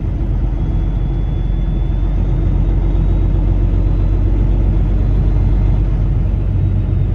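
Peterbilt semi truck running, a steady low rumble with a faint high whine through most of it.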